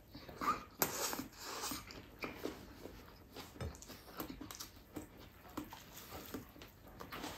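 Close-up mouth sounds of a person chewing a handful of rice and sardines eaten by hand: wet lip smacks and small clicks in an uneven pattern, loudest in the first two seconds, then softer and more scattered.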